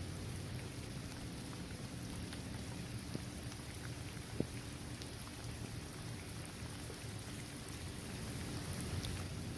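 Steady rain falling on a basketball court, trees and grass, with scattered individual drops ticking through the patter. A little past the middle comes one sharper drop hit.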